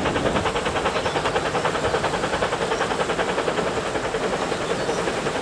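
Narrow-gauge steam train running, with a fast, even beat of about nine a second.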